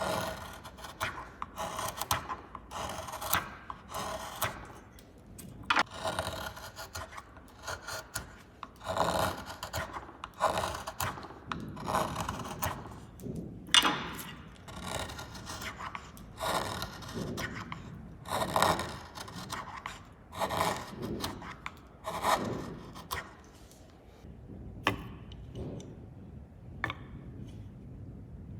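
A carving chisel cutting into wood in a series of short, irregular scraping strokes with brief pauses between them.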